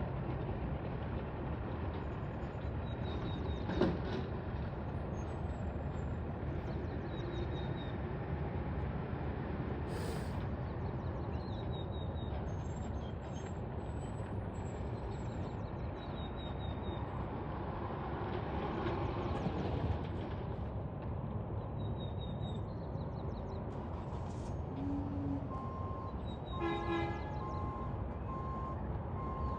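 Garbage truck engine running steadily, with a short knock about four seconds in and a clatter near the end. In the last few seconds its reversing alarm starts beeping, about once a second.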